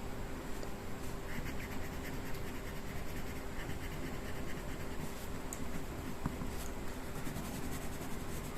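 A colouring tool scratching back and forth on paper as part of a drawing is shaded in, over a faint steady hum.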